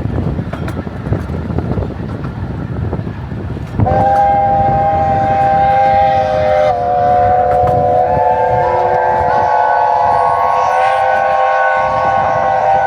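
Low rumbling noise, then about four seconds in steam locomotive chime whistles start up: a loud, steady chord held on, with another whistle's chord joining a few seconds later as several locomotives whistle together.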